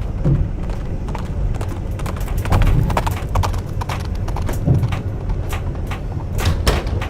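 Clip-clop of horse hooves, an added sound effect, as a run of sharp uneven knocks over a steady low rumble.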